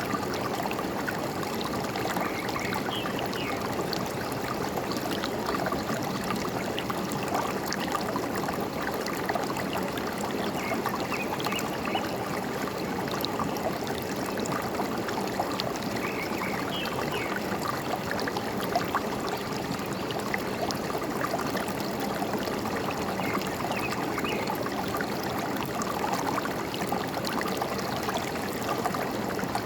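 Forest stream flowing and trickling steadily, with a few short bird chirps scattered through it.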